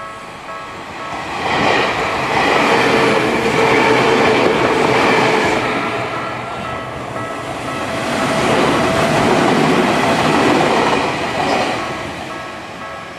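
Tokyu 1500 series three-car electric trains passing over a level crossing: two loud passes a few seconds apart, rising and fading, with the crossing's warning bell ringing steadily underneath.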